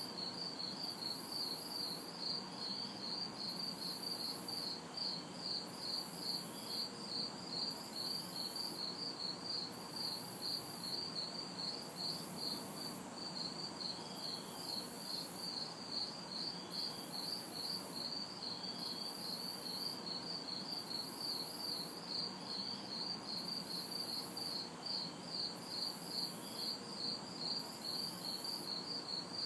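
Crickets chirping in a steady, even rhythm of several chirps a second, with a higher insect buzz (cicadas) pulsing on and off about once a second. A faint low hum of distant city traffic lies underneath.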